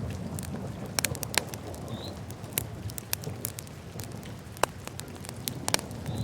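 Wood fire crackling in a fireplace: irregular sharp pops and snaps over a steady low rumble of the flames, with the loudest pops about a second in and near the end.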